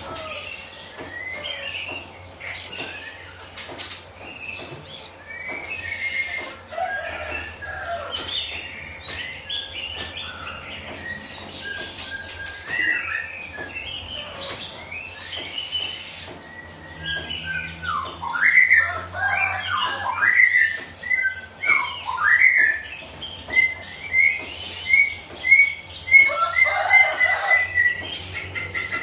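Oriental magpie-robin (kacer) singing a varied run of whistled phrases and chirps. Near the end it repeats one short note over and over at the same pitch.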